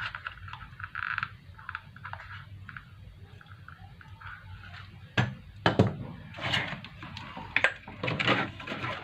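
Soldering on a CRT TV circuit board: faint short crackles at the iron, then from about five seconds in several sharp clicks and knocks as tools and the board are handled.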